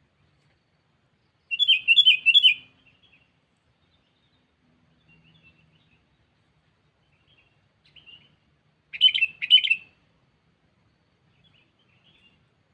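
Sooty-headed bulbul (kutilang) decoy bird calling to lure rivals: a quick run of about four loud notes about a second and a half in, a few faint notes, then two short loud calls about nine seconds in.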